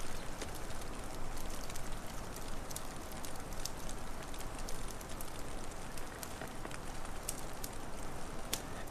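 Crackling wood fire: scattered sharp pops and snaps, irregular and several a second, over a steady hissing, rumbling bed.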